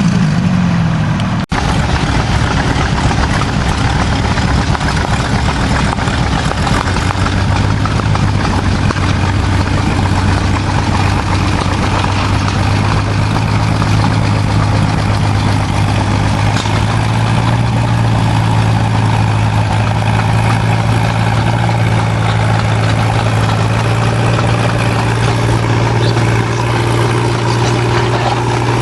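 Antique tractor engine running loudly and steadily. A brief break comes about a second and a half in, then a steady low engine note settles in and steps up slightly about halfway through.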